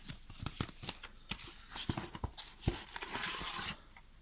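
Light knocks and clicks of parts being handled, with a brief rustle about three seconds in.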